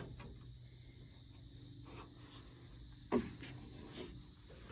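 Quiet background with a faint, steady high-pitched insect drone, and one short knock about three seconds in.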